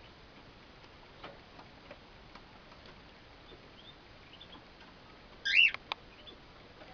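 Young cockatiels in their cage: faint, irregular clicks and taps, then one short, loud chirp about five and a half seconds in, followed by a couple of sharp clicks.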